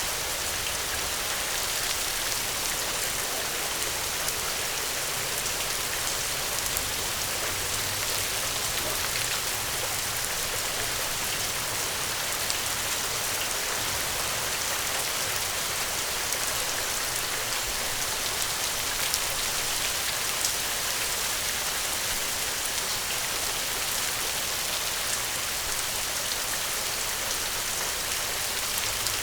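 Steady rainfall: an even, unbroken hiss with scattered sharp little ticks of drops.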